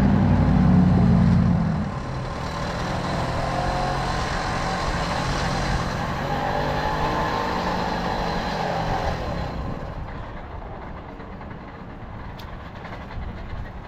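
Tomos moped's small two-stroke engine running under way, with road and wind noise. It is loudest in the first two seconds, then runs steadier and quieter, dropping further after about ten seconds.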